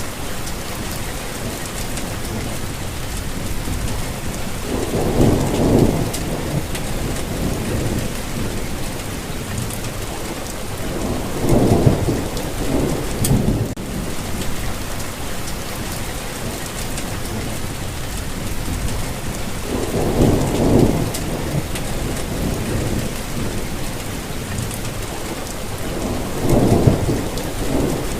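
Steady rainfall, an even hiss of rain on surfaces. Four short low rumbles swell up and fade through it at intervals of several seconds.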